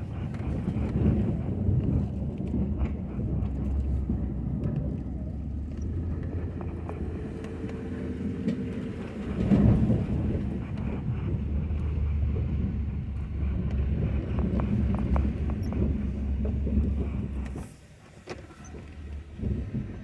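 Ford F-250 pickup truck's engine running, a steady low rumble with scattered knocks and clunks, dropping away sharply for a moment near the end.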